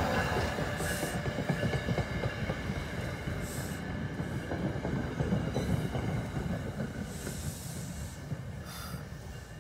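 NJ Transit electric train, an ALP-46 locomotive with single-level coaches, rolling past on the rails: a steady wheel-and-rail rumble that fades as it draws away, with faint high steady tones and a few brief hissing rushes over it.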